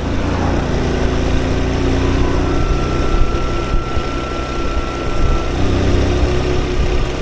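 A Honda Cub's small single-cylinder engine running steadily as the motorcycle rides along a road, with heavy wind rumble on the microphone.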